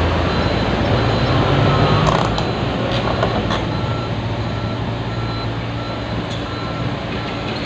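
Construction vehicle engine running, with a reversing alarm beeping steadily from about halfway through, a little under two beeps a second. A few sharp clicks or knocks come before the beeping starts.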